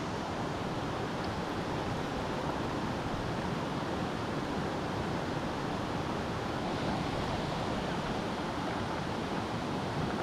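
Steady rushing of a mountain stream: an even, unbroken wash of water noise.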